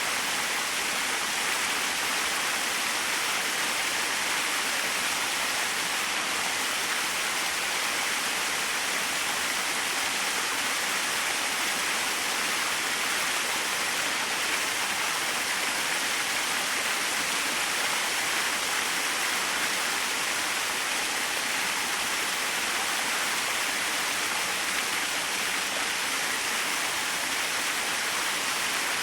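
Small waterfall splashing, a steady hiss of falling water with no changes.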